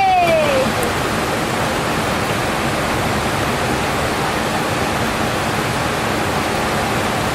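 Steady rush of river water, an even noise throughout. A short pitched sound glides downward in the first half second.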